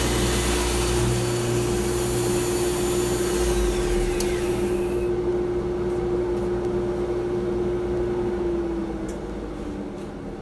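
Woodworking power tool running with a steady hum and hiss, then shutting off: the high hiss dies away with a falling whine about four to five seconds in, and the remaining hum stops near the end.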